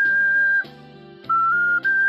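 Ocarina playing a slow melody over a backing accompaniment: a long held high note ends about half a second in, then after a short pause a phrase of short notes steps upward.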